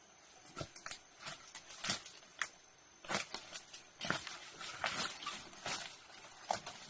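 Footsteps through forest undergrowth: irregular steps with rustling, about one or two a second.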